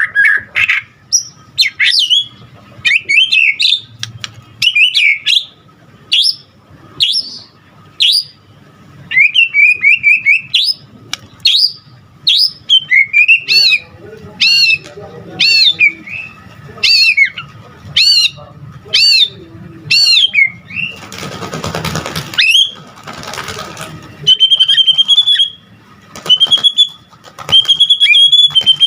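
White-rumped shama singing a loud, rapidly changing song of varied whistled phrases. A run of repeated down-slurred notes comes about a second apart, a couple of seconds of harsh rasping noise come near the middle, and the song ends on steady held whistles.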